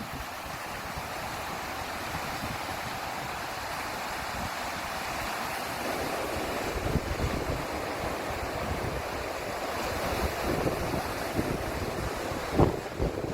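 Sea surf washing steadily against the shore, with wind gusting and buffeting the microphone in low rumbles, strongest about seven seconds in and near the end.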